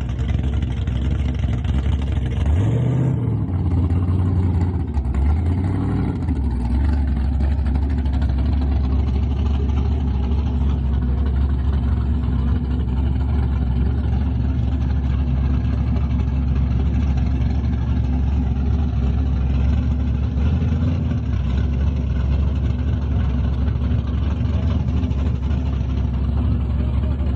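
A car engine running with a steady low rumble, its pitch shifting briefly about three seconds and six seconds in.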